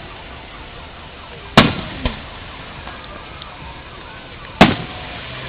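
Aerial fireworks shells bursting: two loud booms about three seconds apart, the first followed half a second later by a smaller bang, each trailing a short echo.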